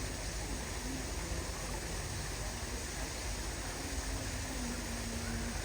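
Steady background hiss of outdoor ambience, with faint distant voices.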